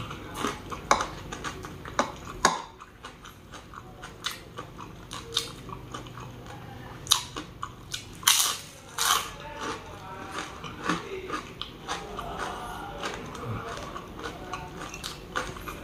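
Close-up eating sounds: a person biting into and chewing crisp fried food, with irregular sharp crunches.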